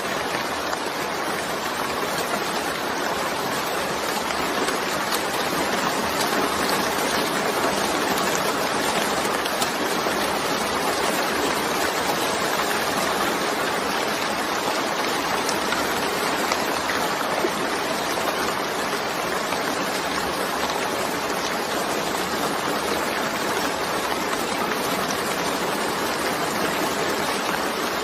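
Steady heavy rain: an even, unbroken hiss with faint scattered drop ticks.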